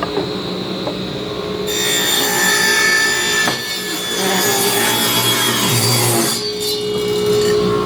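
Table saw running, its blade ripping through a board for about four and a half seconds starting near two seconds in, then spinning free again with a steady hum.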